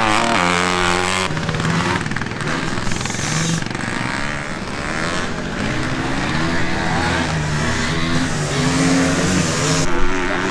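Vintage motocross bikes' engines running on the track, several at once, their pitch rising and falling as the riders rev up and back off.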